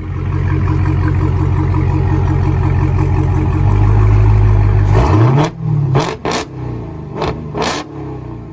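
Supercharged 6.2L Hemi V8 of a Dodge Challenger Hellcat, breathing through CARVEN R-Series mufflers with a rear muffler delete, running with a steady deep drone that swells louder past the middle. A quick rising rev follows, then several short sharp cracks.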